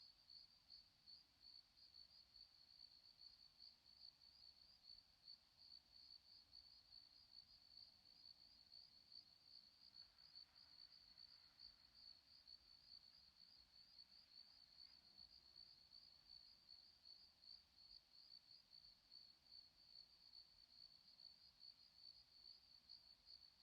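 Faint crickets chirping, a steady high-pitched trill pulsing about twice a second.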